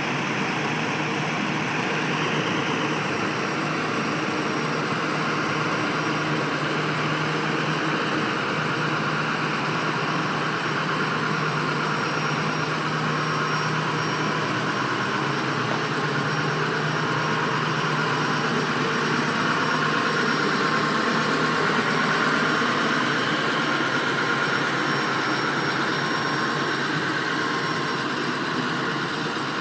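International VT365 V8 turbo-diesel engine of a 2005 International 4200 dump truck running steadily at an even, idle-like speed.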